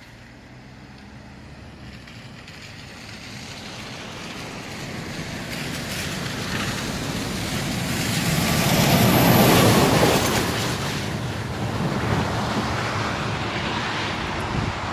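Road, wind and engine noise of a moving vehicle, building steadily to a peak about nine to ten seconds in and then holding level.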